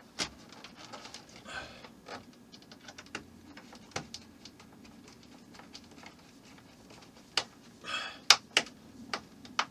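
Scattered clicks and taps of small plastic model-kit parts being handled and fitted by hand, with two short rustles and a cluster of sharper clicks near the end.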